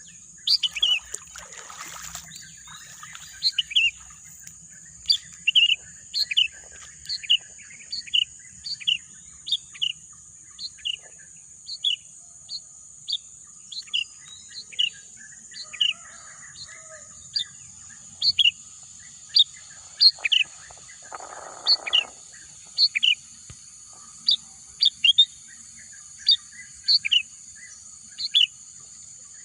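A songbird repeating a short, sharp, high chirp about once a second, over a steady high-pitched hiss.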